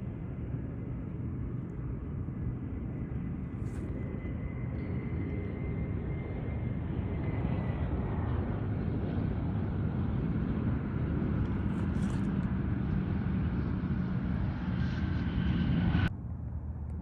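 Airplane engines running steadily and growing louder as the aircraft nears, with a faint high whine that drops slightly in pitch midway. The sound cuts off suddenly near the end.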